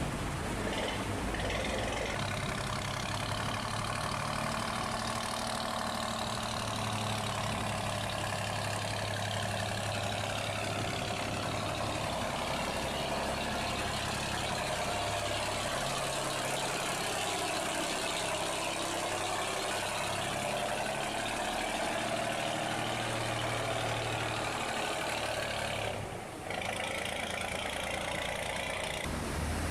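Boat engine running steadily over the rush of fast-flowing water, with a brief drop near the end.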